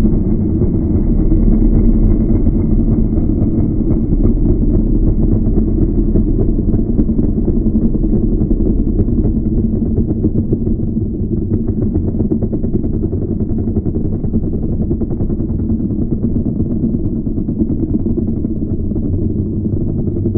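Motocross motorcycle engine running continuously at a steady pitch, without revving up or down.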